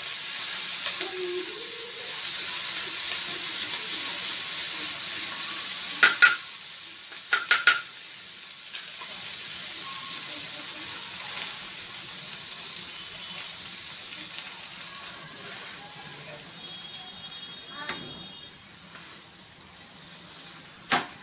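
Butter, oil and bhaji masala sizzling on a hot flat tawa, with a few sharp clicks of a spatula against the pan about six and seven seconds in; the sizzle slowly dies down toward the end.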